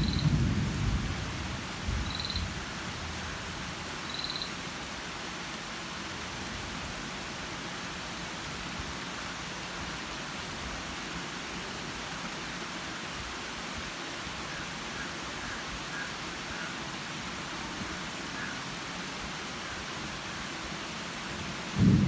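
Steady outdoor hiss of a humid spell ahead of a thunderstorm, with a low rumble in the first two seconds. Three short high chirps come about two seconds apart near the start, and faint chirping comes later on.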